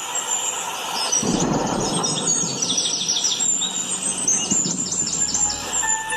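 Small birds chirping: two quick runs of rapid, high chirps, each about a second long, over a steady noisy background.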